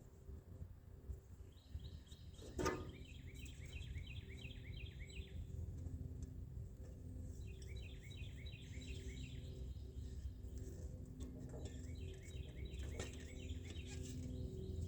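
A songbird singing three runs of rapid repeated chirping notes, each a few seconds long, over a steady low rumble. A single sharp knock sounds about three seconds in.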